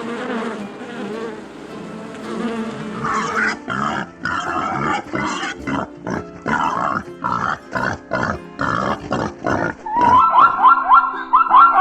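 An animal's short grunting calls, repeated about twice a second, over steady background music. Near the end they give way to a quicker run of high, rising calls.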